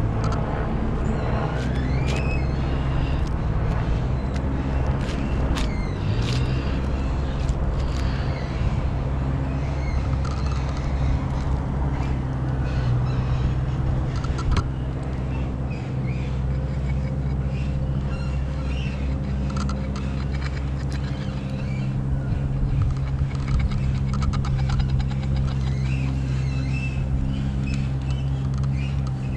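An engine running steadily at idle, its low hum unchanging throughout, with scattered light clicks and rustles over it.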